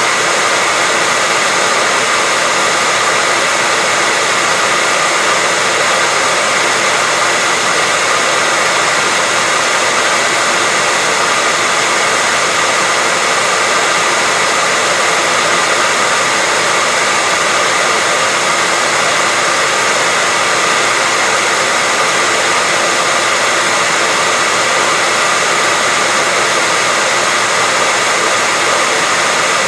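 Hairdryer running steadily: an even, unchanging rushing hiss of blown air with a faint motor whine.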